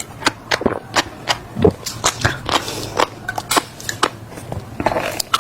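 Close-miked mouth sounds of seeds being chewed: a quick, irregular run of sharp crunches and cracks, several a second, with wet mouth sounds between.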